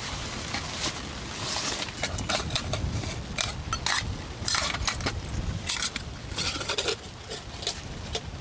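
Metal cookware and utensils clinking, clattering and scraping in a quick, irregular run of knocks over a steady background hiss.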